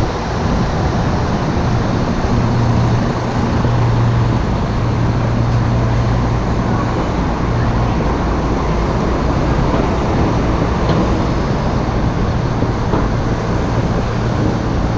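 Steady road traffic noise with a low engine hum that fades in and out, heard from a bicycle riding in traffic.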